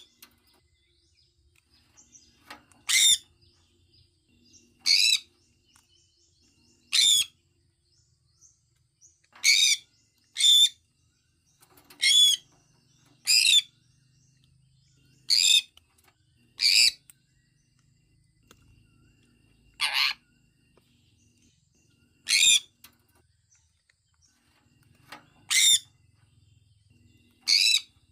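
Sun conure giving a series of short, loud, high-pitched calls, one every one to two and a half seconds, about a dozen in all, with faint softer chirps between them.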